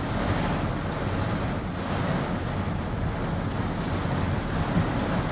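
Steady rushing noise of a thunderstorm, wind and rain, with wind buffeting the microphone.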